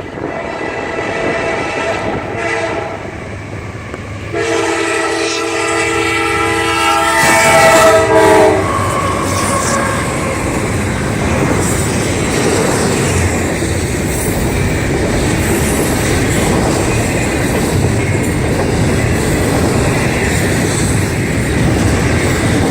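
Freight train's locomotive air horn sounding a chord, strongest in a blast of about four seconds that ends some eight seconds in, then the steady noise of the train rolling past.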